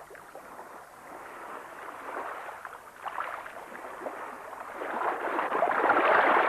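Water splashing and sloshing, with no steady tone, building to its loudest in the last couple of seconds.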